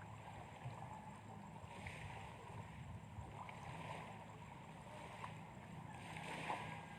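Faint, steady low rumble of background noise, with soft hissy swells now and then.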